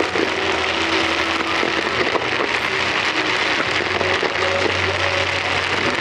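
Low-level fireworks (comets and fountains fired in quick succession) giving a continuous dense crackle of many small pops, steady throughout.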